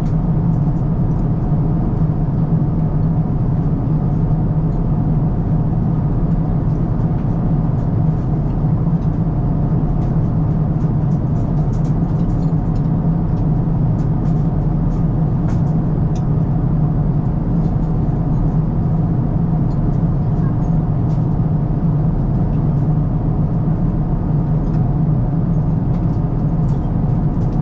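Steady cabin drone inside an Airbus A350-1000 airliner: a constant low rumble of engines and airflow, unchanging throughout, with a few faint clicks.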